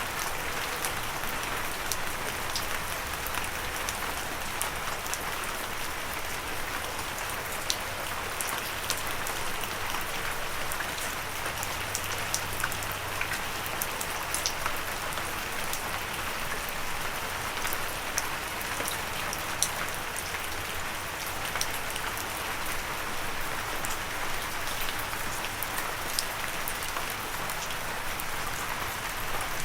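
Gentle steady rain, with a constant hiss and many small, sharp drop ticks scattered throughout.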